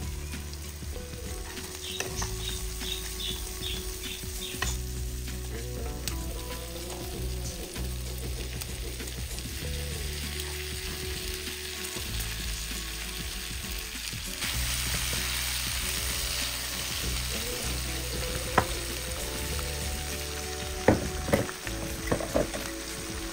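Food sizzling in a hot pan. The hiss gets louder about halfway through, and a utensil clinks against the pan a few times near the end.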